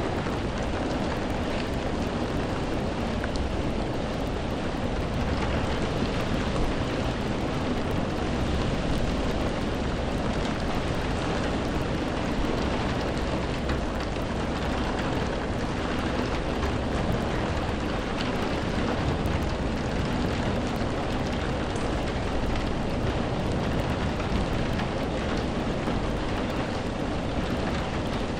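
Steady rain, a dense even hiss with scattered faint drop ticks, over a deep low rumble.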